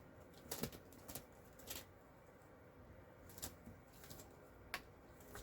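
Faint, scattered light clicks and taps, about five in all, of small metal craft cutting dies being handled and set down while being sorted through.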